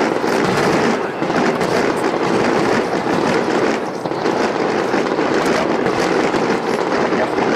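Aerial fireworks fired in a rapid starmine barrage: many shell bursts and crackles running together into a continuous din, with a slight lull about a second in and again about four seconds in.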